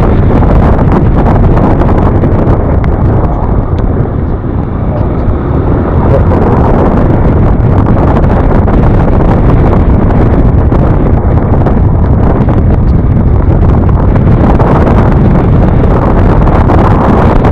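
Loud, steady wind rushing over the microphone of a rider moving at speed on a scooter, with road and engine noise underneath. It eases slightly for a moment around four to five seconds in.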